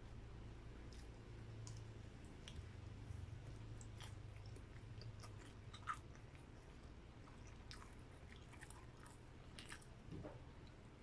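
Close-miked chewing and biting of grilled barbecue meat, faint, with scattered small wet clicks and smacks, the sharpest about six seconds in. A steady low hum lies underneath.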